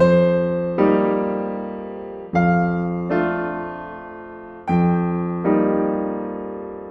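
Slow, gentle solo piano music: chords struck in pairs, a new pair about every two and a half seconds, each left to ring and fade.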